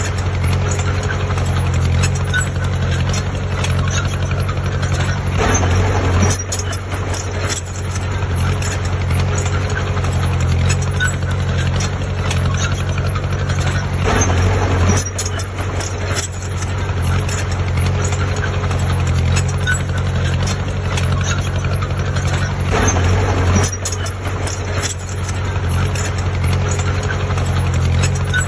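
Diesel engine of heavy earthmoving machinery running steadily, with a louder surge about every eight or nine seconds.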